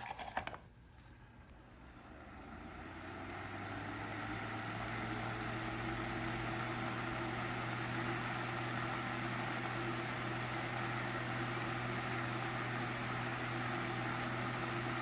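Holmes Lil' Blizzard 8-inch desk fan switched on at low speed: a few clicks of the control knob, then the motor spins up over the first few seconds and settles into a steady rush of air over a low motor hum.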